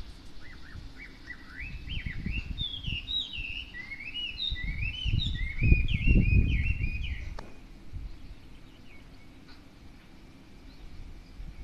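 A songbird singing a long, varied run of quick rising and falling whistled notes, phrases repeated, which the uploader takes for a Chinese hwamei. The song stops about 7 s in; a low rumble comes and goes underneath, loudest near the song's end.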